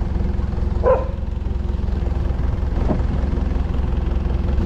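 Boat engine running steadily, a continuous low drone. There is a brief high squeak about a second in and a fainter one near three seconds.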